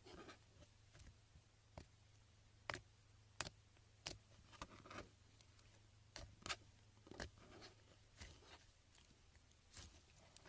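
Slime being worked by hand, giving irregular small sticky clicks and pops about once or twice a second, over a faint steady hum.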